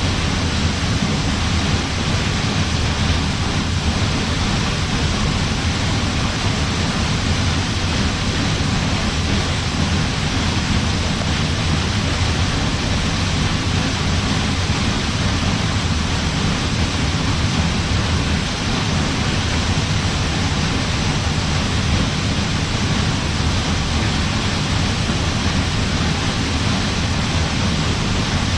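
Waterfall pouring steadily into its pool: an even, unbroken rush of water with a deep low rumble underneath.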